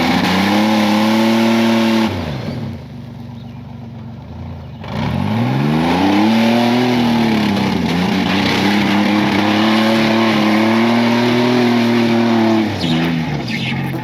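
GMC Jimmy's engine revving hard and held at high revs. It eases off about two seconds in, climbs again about five seconds in, holds until near the end, then drops.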